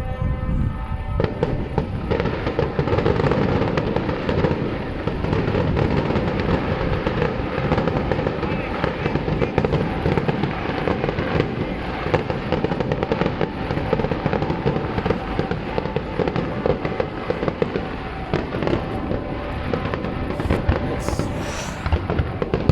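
Fireworks barrage: a dense, continuous stream of bangs and crackling shells going off in rapid succession.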